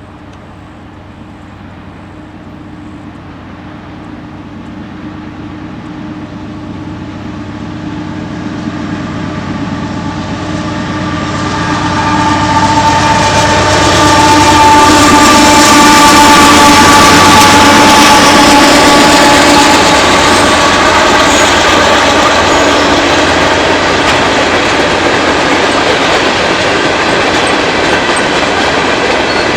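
Norfolk Southern freight train approaching and passing: a steady rumble with several held tones that grows louder over about fourteen seconds, then stays loud as the train rolls by.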